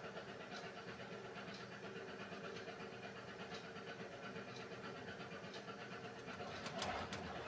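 Beko WMY81283LMB2 washing machine running its hand wash cycle: a steady motor hum with a soft swish about once a second, and a few sharper clicks near the end.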